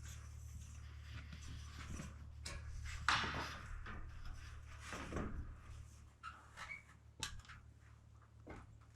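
Scattered knocks, clicks and scrapes, with a louder scraping rush about three seconds in, over a steady low hum.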